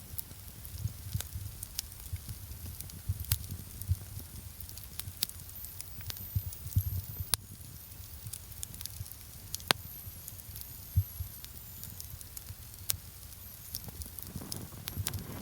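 Small larch-wood campfire crackling, with irregular sharp pops scattered through and a low rumble beneath.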